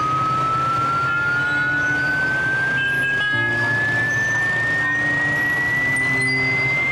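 A single clear high tone rising slowly and steadily in pitch, like a siren winding up, over lower sustained tones that shift every second or so.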